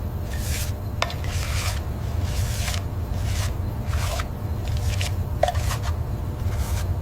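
Sanding of metal car bodywork: repeated rasping rubbing strokes, about three a second, over a steady low rumble, with a couple of sharp clicks.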